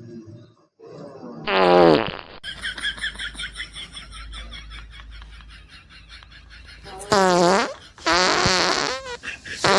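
Loud, drawn-out fart noises. The first comes about a second and a half in and drops in pitch; a cluster of three more follows near the end.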